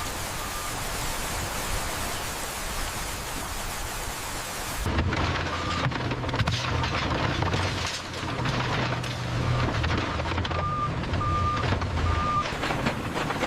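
Steady rain-like hiss for about five seconds, then an abrupt change to a low rumble of heavy machinery with crackling and rattling, broken near the end by three short high beeps.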